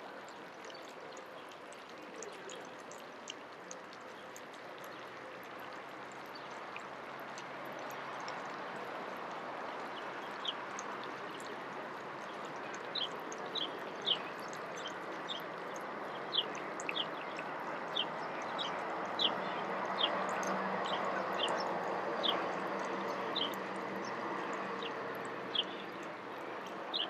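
Steady rushing, water-like noise that slowly grows louder, with short high bird chirps repeating about once a second from about ten seconds in.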